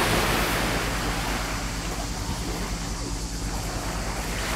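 Jet ski engine running steadily under a rush of water and wind noise on the microphone.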